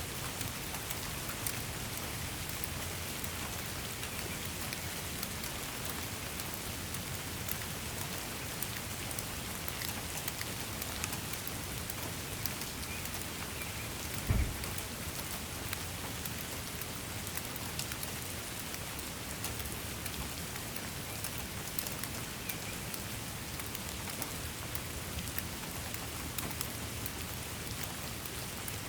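Steady rain falling, a constant hiss with many individual drops pattering on a surface. About halfway through there is a single short low thump.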